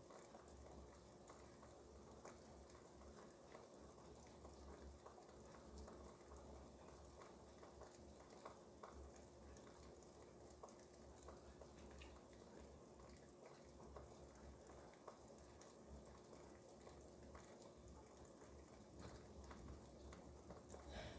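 Near silence: faint rain outside with scattered light ticks of drops, over a low steady hum.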